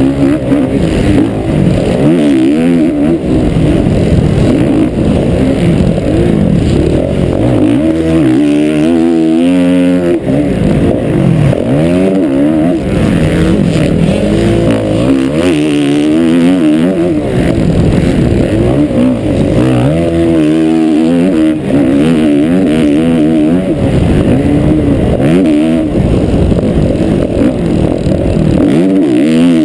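Motocross motorcycle engine heard close up from a camera mounted on the bike, running hard and revving up and down. The pitch climbs in repeated sweeps as the rider accelerates and shifts, and drops back between them as he rolls off the throttle.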